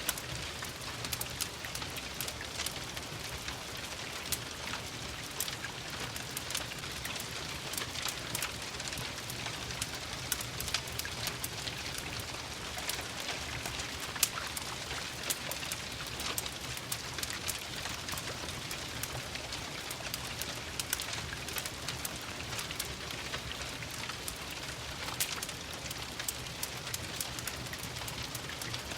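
Steady rain pattering, mixed with a crackling fireplace: an even hiss scattered densely with sharp ticks and crackles.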